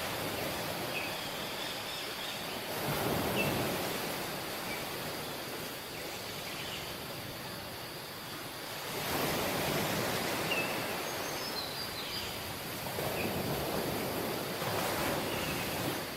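Waves breaking and washing up on a beach, surging three times, each wash rising and falling over a couple of seconds. Faint high chirps sound now and then over the surf.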